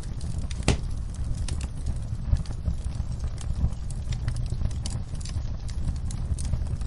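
Wood fire in a fireplace crackling: irregular sharp pops and snaps, one louder pop less than a second in, over a steady low rumble of the burning fire.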